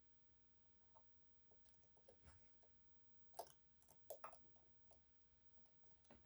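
Faint, sparse metallic clicks and light scrapes of a lock pick and tensioner working the sliders inside an EVVA 3KS high-security lock. The sharpest click comes about three and a half seconds in, and a few more follow just after four seconds.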